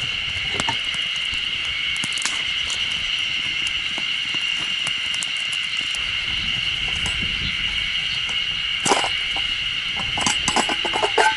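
Wood campfire crackling with scattered sharp pops, over a steady high-pitched hum. A louder crack comes about nine seconds in, then a quick run of clicks near the end.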